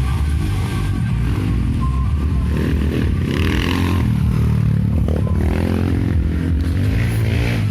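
Dirt bike engines revving up and down, with the pitch rising and falling through the middle.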